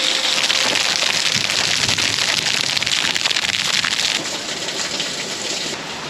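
Heavy rain pouring down in a thunderstorm, a dense hiss of countless drops; it eases slightly about four seconds in.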